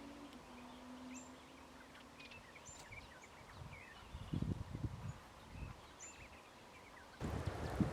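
Several small birds chirping and calling in short, scattered notes, with low rumbles from about four seconds in and a rise of noise near the end.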